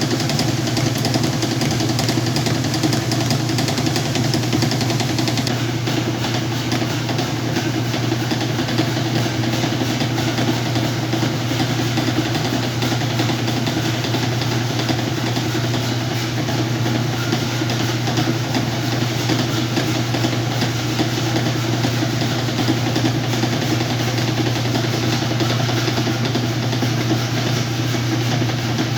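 Whirlpool washing machine running a load of blankets, giving a steady, unchanging motor hum with mechanical noise over it.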